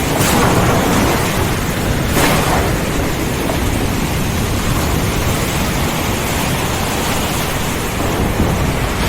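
Heavy rain falling steadily under a deep, continuous thunder rumble, with a sharp crackle near the start and another about two seconds in.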